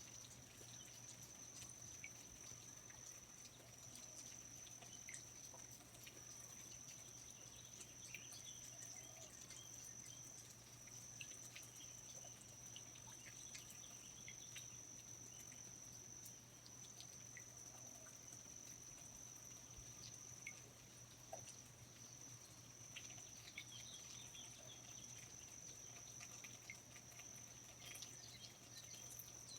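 Faint rainforest ambience: an insect's steady high-pitched trill runs unbroken, with scattered small drips, ticks and brief chirps over a faint low hum.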